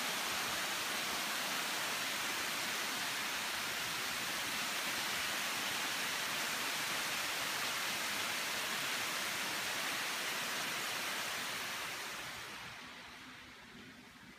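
Steady hiss of heavy rain, fading away over the last two or three seconds.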